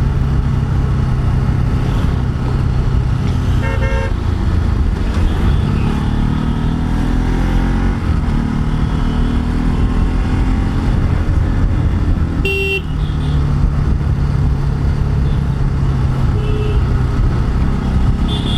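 Motorcycle engine running while riding on a road, its pitch climbing as it speeds up near the middle. Short horn toots come about four seconds in and again about twelve seconds in.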